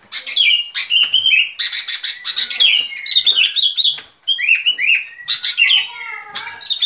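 Bulbul (Vietnamese 'bông lau', yellow-vented) song played as a trapping lure: rapid, bubbly phrases of short whistled notes, many sliding downward, repeated one after another with a brief break about four seconds in.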